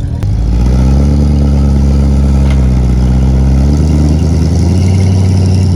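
A car engine running loud and close, starting up sharply just after the start and holding a steady low note, its pitch stepping up a little twice as it is revved.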